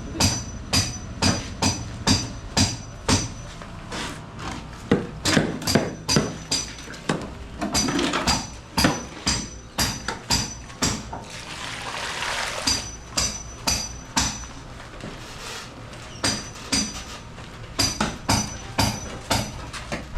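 Repeated hammer blows, often two to three a second, some with a high metallic ring, in uneven runs.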